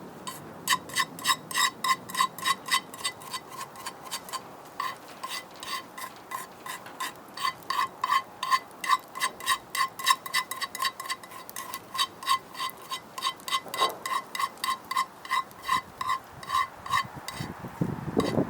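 A utensil tapping quickly and repeatedly against a ringing metal cooking pot, about three or four taps a second: stirring or mixing food in the pot.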